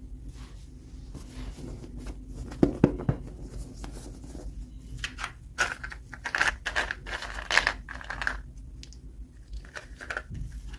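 Toy packaging being torn open and crinkled by hand, with a few sharp clicks about three seconds in and the loudest stretch of tearing and rustling in the middle.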